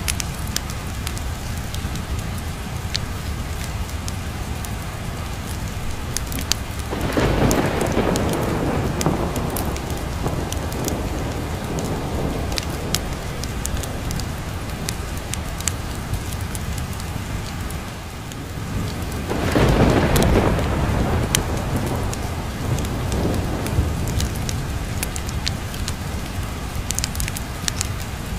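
Steady rain with a patter of drops, and two rolls of thunder: one about seven seconds in and another a little past the middle, each rumbling for a few seconds.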